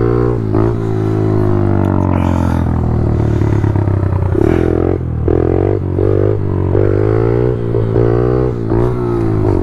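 Small single-cylinder pit bike engines running under a steady low drone, revved up and down over and over, with the pitch rising and falling every second or so as the throttle is worked.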